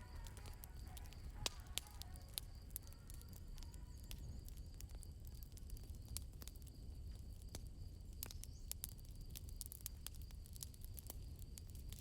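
Campfire crackling: scattered sharp pops over a low, steady rumble. Crickets chirp softly and steadily throughout.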